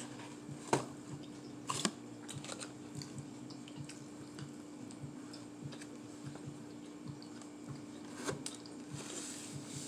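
Eating sounds: chewing and mouth clicks, with a few sharper clicks, over a steady low electrical hum.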